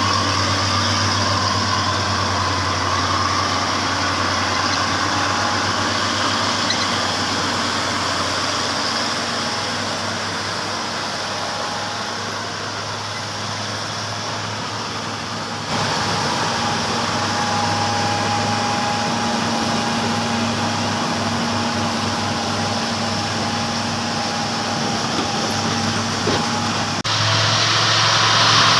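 Logging truck's diesel engine running steadily. The sound changes abruptly about halfway through and again near the end, where it grows louder.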